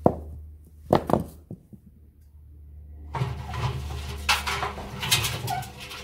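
Indesit washing machine running with heavy bricks in its drum: a steady low hum, a few sharp knocks in the first second and a half, then a longer stretch of rumbling and banging from about three seconds in.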